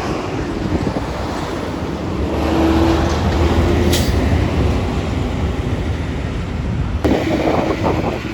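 A heavy vehicle's engine running with road noise, the drone swelling a couple of seconds in. There is a sharp click about four seconds in and rougher rattling near the end.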